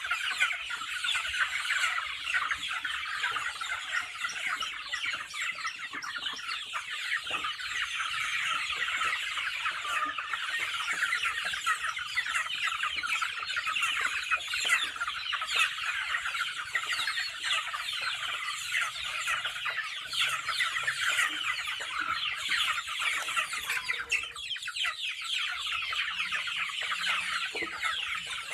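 A flock of chickens clucking and calling all at once, a dense, continuous chatter of many overlapping short calls.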